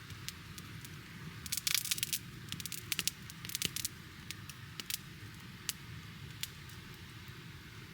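Wood campfire crackling, with a cluster of sharp snaps and pops a second or two in that thin out to occasional single pops.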